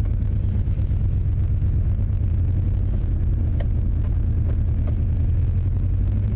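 1995 Chevy Tahoe's engine idling steadily just after a cold start. The engine has a spun main bearing on the crankshaft.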